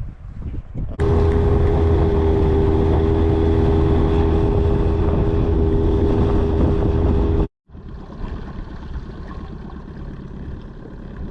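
Boat motor running steadily at constant speed, loud and close, starting abruptly about a second in. It cuts off sharply after about six seconds, and a quieter steady noise follows.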